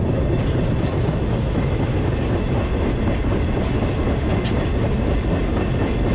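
Freight train rolling along, heard from aboard a car: a steady heavy rumble with the clickety-clack of wheels over the rails.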